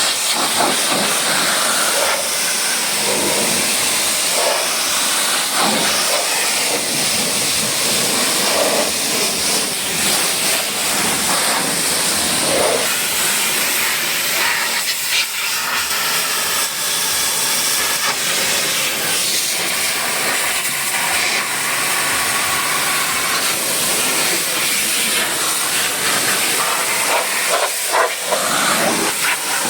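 High-pressure washer spraying water onto a vehicle: a steady, loud hiss that shifts a little as the jet moves.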